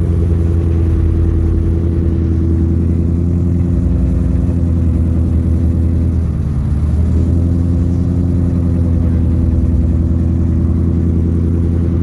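Car engine running steadily with a deep, low drone; its pitch dips briefly about six seconds in.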